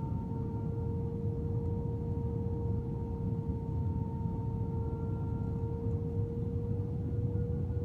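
Airliner jet engines during the approach to landing: a steady low rumble with a sustained hum and fainter higher tones above it, its pitch edging up slightly.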